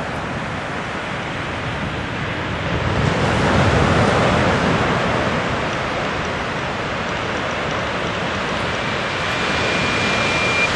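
Surf breaking steadily. Near the end, an eastern whipbird holds a long, steady whistle note, the drawn-out start of the male's whip-crack call.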